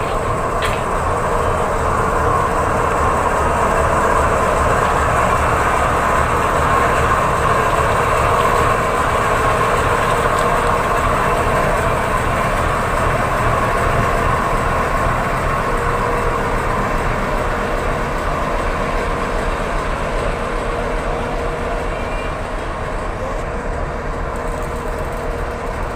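A train running with a continuous rumble and a faint steady tone, growing a little louder over the first few seconds and easing slowly toward the end.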